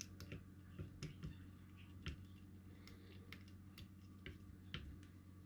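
Faint, irregular light clicks and taps of a plastic IC socket and small parts being handled and fitted onto a circuit board, over a steady low electrical hum.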